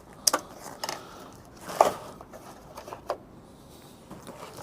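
A few sharp clicks and rustles from handling a motorcycle tank bag's straps and fastenings as the strap is wrapped around the frame, the loudest click about two seconds in.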